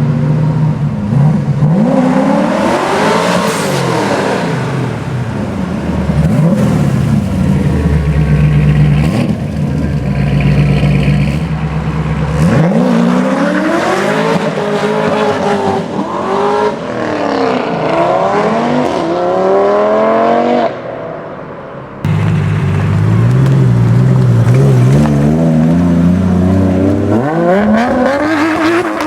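Tuned high-performance car engines revving and accelerating hard, the pitch sweeping up and down again and again, with a short drop in level about three quarters of the way through.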